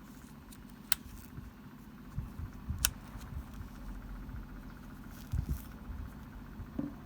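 Two sharp clicks and scattered soft low knocks, as of small parts and tools being handled on a workbench, over a steady low hum.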